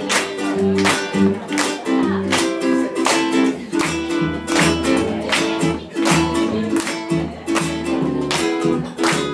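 Acoustic guitar strummed in a steady, evenly spaced reggae rhythm over low bass notes: an instrumental passage with no singing.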